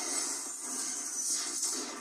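Animated-cartoon soundtrack during a car race: background music mixed with noisy sound effects, with a few brief sliding sounds.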